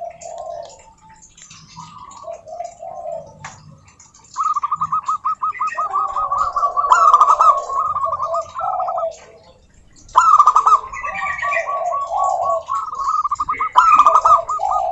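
Zebra doves (perkutut) cooing: a few soft coos, then two long runs of fast, staccato notes over lower warbled coos, starting about four and ten seconds in.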